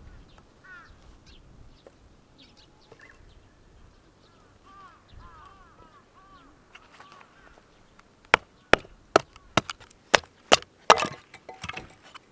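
Firewood being chopped for a campfire: a quick run of about nine sharp wooden knocks in the last few seconds, after a quiet stretch.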